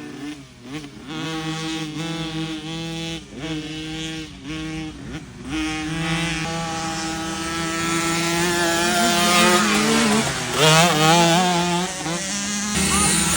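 Small dirt bike engine revving as it is ridden. The pitch drops off and picks back up several times in the first few seconds, then is held higher and more steadily with some wavering near the end.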